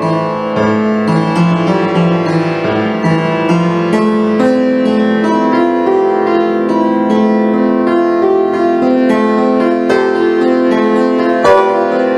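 Instrumental keyboard music: piano-like notes over held chords, playing steadily.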